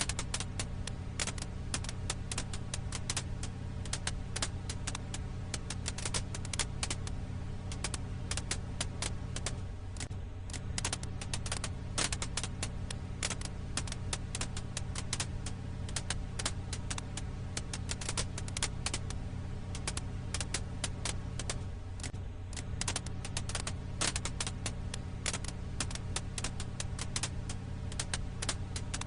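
Firewood crackling in a campfire: dense, irregular snaps and pops, several a second, over a steady low hum.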